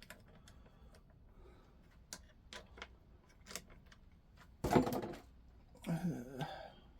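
A few light metallic clicks of small engine parts being handled, then one loud metal clank with a short ringing tail about two-thirds in, like a tool set down hard on a hard surface. A brief murmur from a person follows near the end.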